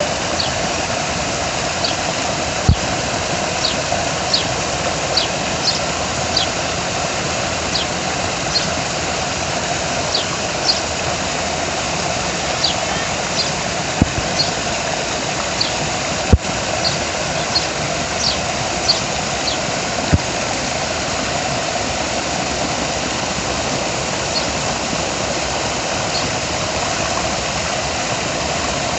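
Small birds chirping: short high calls repeated about once a second, stopping after about twenty seconds, over a steady background hum. Four sharp clicks.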